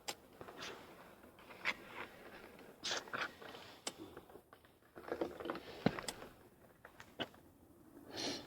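Irregular crunching, scraping and clicking steps on loose grit and debris, with a few sharper clicks spread through and a busier patch in the second half.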